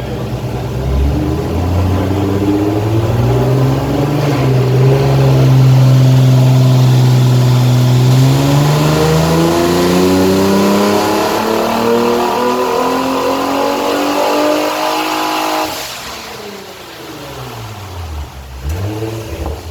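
Twin-turbocharged Infiniti G35 Coupe's 3.5-litre V6 running through a straight-piped exhaust under full throttle: one long pull with the engine note climbing steadily for about ten seconds. About sixteen seconds in the throttle is lifted, the sound drops sharply, and the engine winds down with a few smaller rises and falls.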